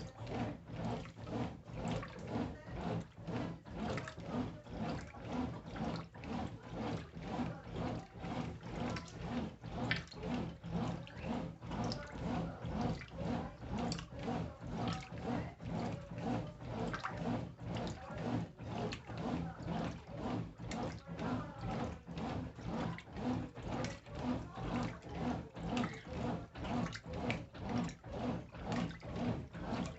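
Brastemp Intelligent 7 kg top-loading washing machine agitating a load in water: clothes and water slosh in regular surges about every two-thirds of a second over a steady motor hum.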